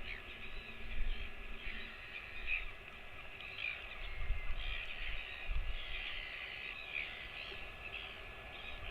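Birds calling: many short, scattered chirps and calls over a steady background hiss, with a few low rumbles.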